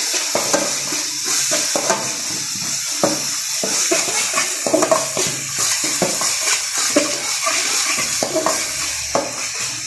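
Ground masala paste frying in oil in a metal kadai, sizzling steadily, while a flat steel spatula stirs and scrapes it against the pan in quick, irregular strokes. The masala is being fried until its raw smell cooks off.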